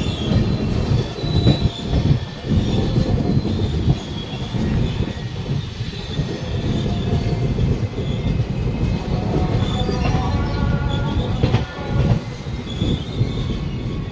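Passing train's wheels rumbling and clattering over the rails, with intermittent high-pitched squeal of wheels on the track.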